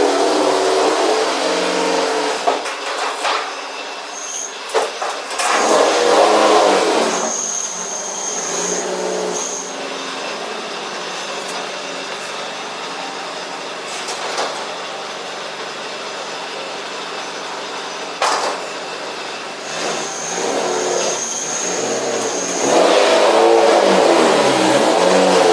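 Car engine revving hard in bursts, its pitch climbing and falling, with quieter, steadier running in the middle and a sharp knock partway through.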